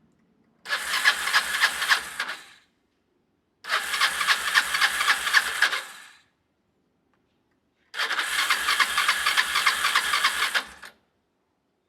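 Electric starter cranking a Kawasaki Estrella's single-cylinder engine three times, each try lasting about two to three seconds with a quick even chugging, separated by short pauses; the engine does not catch and run.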